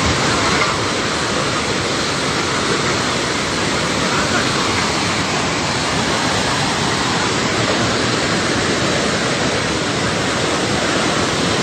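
Steady, loud rush of a river in flash flood, fast muddy water churning down its channel with no let-up.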